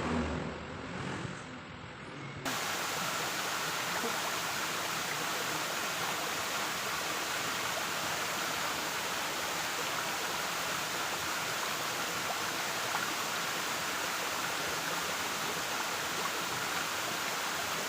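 Waterfall rushing steadily, an even full-range hiss of falling water that cuts in suddenly about two seconds in, after a brief muffled low rumble.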